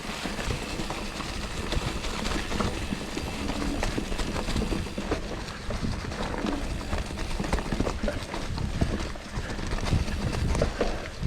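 Mountain bike rolling over a rough, leaf-covered trail: tyres crunching through dry leaves, with irregular knocks and rattles as the bike jolts over roots and rocks.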